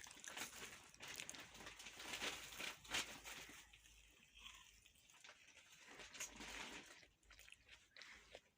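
Near silence in a small room, with faint scattered rustling and small clicks, mostly in the first three seconds or so.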